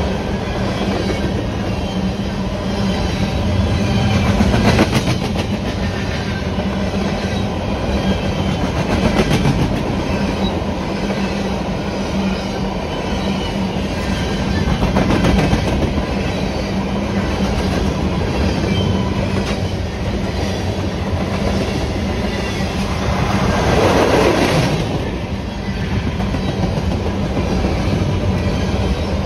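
Freight train of open-top hopper cars rolling past: a steady rumble of steel wheels on the rails with clickety-clack from the wheels and trucks, swelling and easing as the cars go by, loudest about five seconds before the end.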